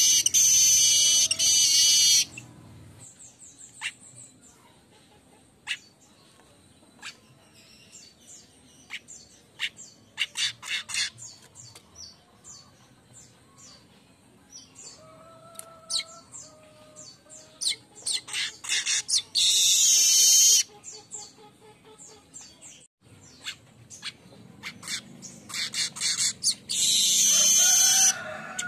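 Streaked weaver (manyar kembang) singing: runs of dry ticking and chattering notes that build into loud, long wheezy buzzes, three times: at the start, about two-thirds through and near the end.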